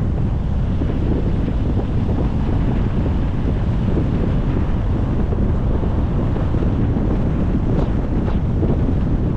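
Wind buffeting the microphone of a moving car, mixed with road noise: a steady low rumble, with a few faint ticks near the end.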